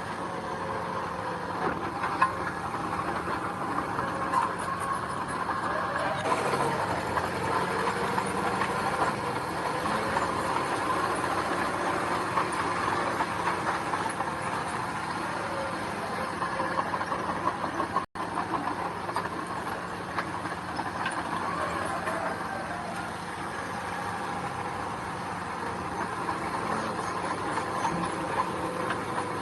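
Diesel engines of heavy earthmoving machinery running steadily, with a constant low drone and clatter. There is a momentary dropout about two-thirds of the way through.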